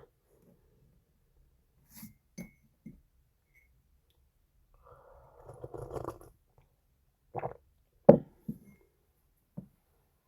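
Scattered faint clicks and knocks from small objects being handled, with a short rustle about five to six seconds in and a sharper knock about eight seconds in.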